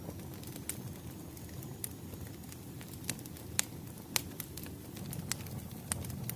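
Wood fire crackling: a steady low rumble of burning logs with several sharp, irregular pops, the loudest a little past three and four seconds in.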